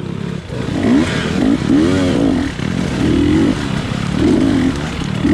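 GasGas dirt bike engine revving up and down in short pulls of throttle, its pitch rising and falling about once a second, with some clattering from the bike.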